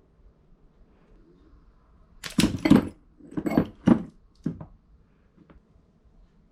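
Hard parts or tools being handled on a work surface: a cluster of knocks and clatters in the middle, then a couple of faint ticks.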